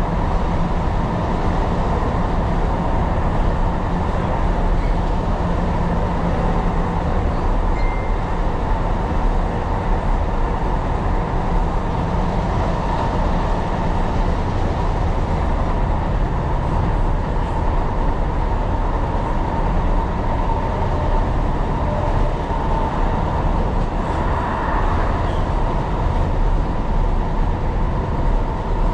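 Tyne & Wear Metro train running along the line, heard from on board: a steady rumble of wheels on rails with a faint steady whine.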